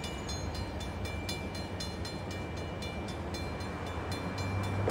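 Diesel locomotives of an approaching freight train: a low rumble that grows louder near the end as the train nears. Over it runs a rapid metallic ringing, several strikes a second.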